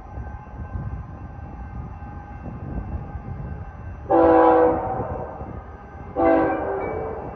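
Train locomotive horn sounding two blasts, a longer one about four seconds in and a shorter one about two seconds later, each a chord of several tones, over the steady rumble of a train.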